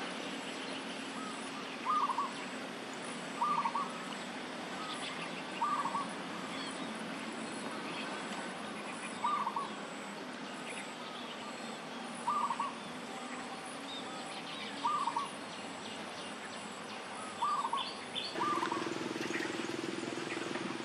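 A bird repeating a short, low two-part call every two to three seconds, over a faint steady high whine. A low steady hum comes in near the end.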